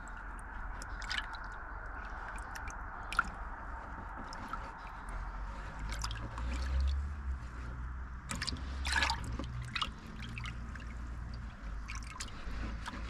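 Hands rummaging in a car's engine bay: scattered clicks, light knocks and rustling of parts and plastic, with one sharp click about three seconds in and a denser patch of knocks near nine seconds.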